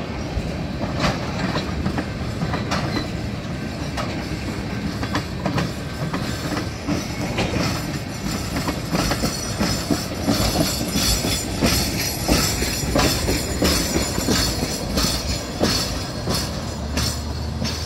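Freight train of tank cars rolling past, steel wheels clicking over the rail joints in a continuous clickety-clack. A high metallic wheel squeal joins in about halfway through.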